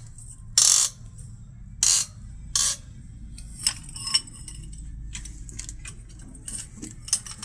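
Short metallic clatters from tools or parts being handled, three sharper ones in the first few seconds, then lighter clicks and ticks.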